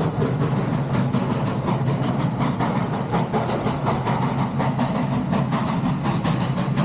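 Western Maryland Scenic Railroad steam train running: a steady low rumble with fast, dense clicking.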